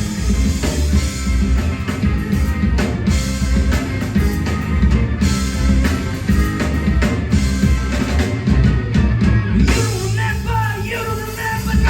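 Live rock band playing with a drum kit driving a steady beat under other instruments and singing.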